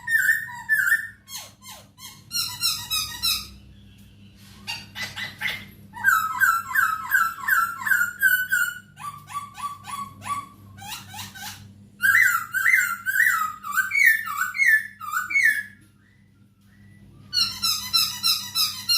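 Masked laughingthrush singing loudly, in bursts of rapidly repeated whistled and chattering notes, with short pauses between the phrases.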